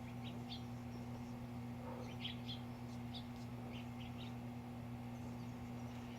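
Small birds chirping in short, scattered calls, with a steady low hum underneath.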